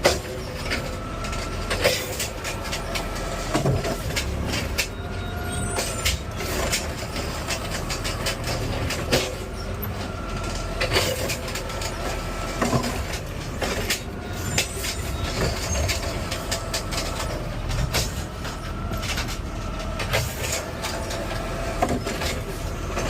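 Automated side-loader garbage truck working its lifting arm: a hydraulic whine comes and goes under repeated clanks and bangs as the arm grips, lifts and dumps a trash cart, over the steady rumble of the truck's engine.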